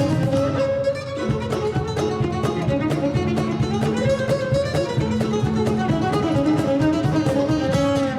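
Acoustic string band playing an instrumental: a bowed cello holds long melody notes over busy plucked guitar and mandolin accompaniment.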